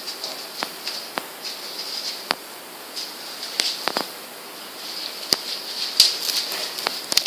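Scattered light clicks and taps, about eight at uneven spacing, over a steady high hiss.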